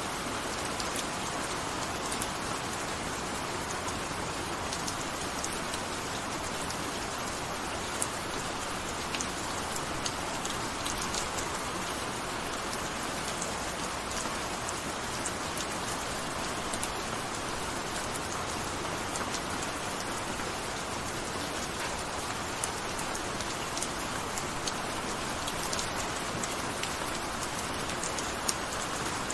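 Steady gentle rain falling, an even hiss dotted with many small drop ticks.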